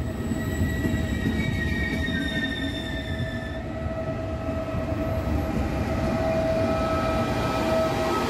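Double-deck regional push-pull train moving past along the platform: a heavy rumble of wheels on the rails with a steady electric whine. The whine grows louder in the second half as the E.464 electric locomotive draws alongside.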